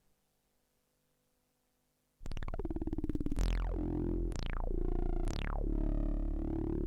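TSynth, a 12-voice polyphonic synthesizer built on a Teensy 4.1, playing a preset: after about two seconds of near silence a deep held bass note comes in, with three sweeps falling from very high to low over it.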